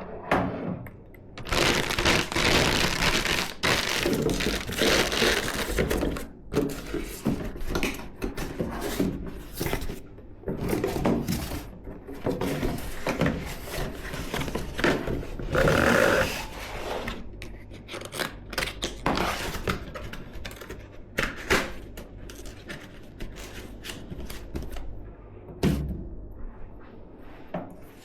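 Hands working on computer parts: irregular scraping and rustling of plastic and metal, with many sharp clicks and knocks.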